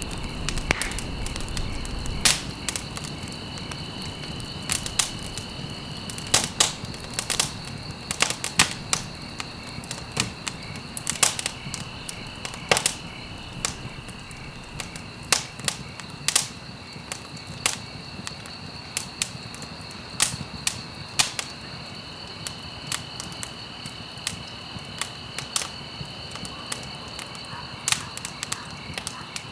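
Wood fire burning in a fireplace, crackling with frequent sharp, irregular pops and snaps over a soft hiss. A faint steady high-pitched tone runs underneath.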